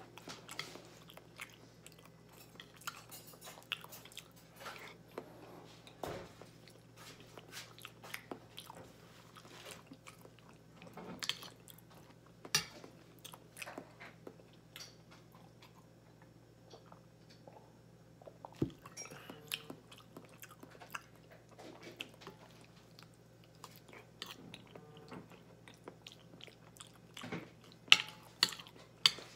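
A person chewing baked macaroni, with the fork clicking against the plate between bites. The loudest clicks come near the end.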